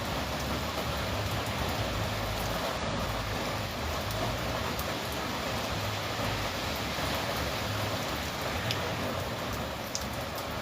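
Steady rain falling, an even hiss with a few individual drops ticking out of it.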